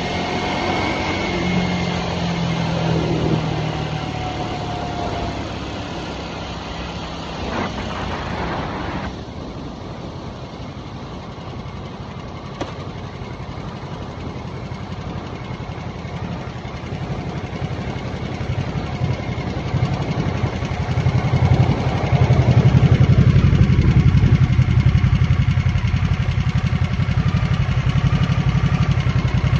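2023 Harley-Davidson Nightster's Revolution Max 975 V-twin running on the move. The engine note eases off about nine seconds in, then builds again from about twenty seconds and stays louder near the end.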